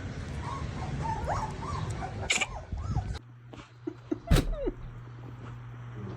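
A dog whining and yelping in short cries that rise and fall in pitch. A sharp knock comes about four seconds in, followed by a few more whines.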